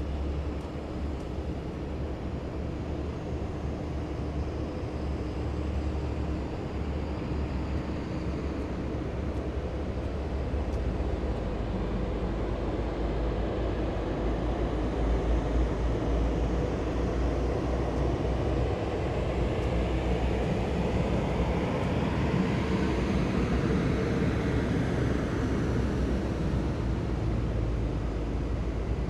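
Column of heavy military vehicles driving past, their engines running in a steady low drone that grows louder over the first half. Later, a nearer vehicle passes, its sound swelling and falling in pitch as it goes by.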